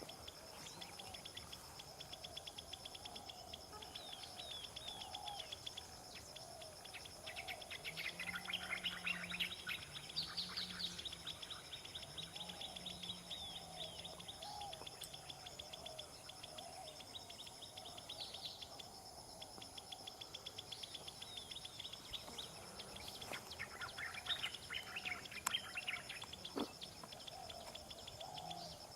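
Birds chirping in quick high bursts, once about eight seconds in and again near the end, over a steady high-pitched insect drone.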